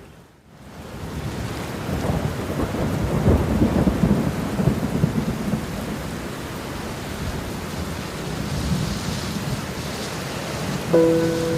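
Thunder rumbling over steady rain. The sound fades up from a brief dip at the start, and the thunder is loudest a few seconds in before settling back into the rain. Near the end, sustained musical notes come in over the rain.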